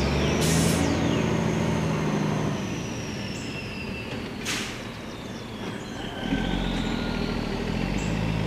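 Engine of a well-drilling rig running steadily, easing off in the middle and picking back up about six seconds in, with two short hisses of air and a faint high whine.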